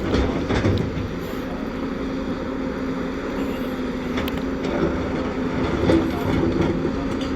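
Heavy earthmoving machinery's diesel engine running steadily, a constant low hum with a few faint clanks.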